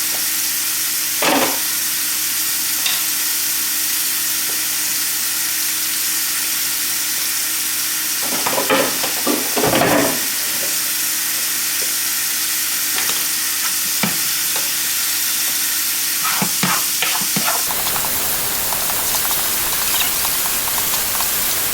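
Sliced steak for pepper steak sizzling steadily as it sautés in a hot skillet. A few short knocks and clatters break in, the loudest a little past halfway.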